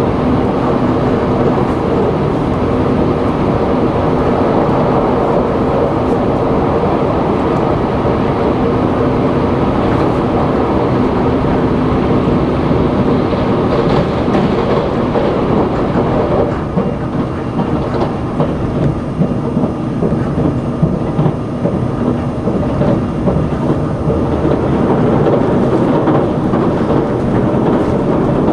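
Cabin noise of the Sonic limited express, an electric tilting train, running at speed: a steady rumble of wheels on rail. A low hum runs through the first half, and from about the middle the sound turns more uneven with scattered clicks.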